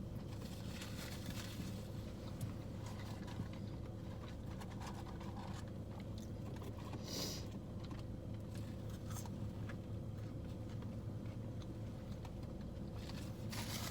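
A person chewing a pulled pork sandwich with crunchy onion bits, with soft bites and mouth clicks, over a steady low hum.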